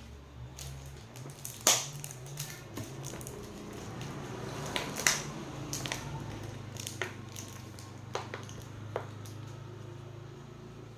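Irregular sharp clicks and knocks of small metal parts and hand tools being handled while working on an electric grinder, the two loudest about 2 and 5 seconds in, over a low steady hum.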